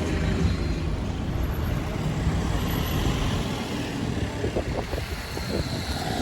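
Road traffic: motor vehicles running past, a steady low rumble with road noise.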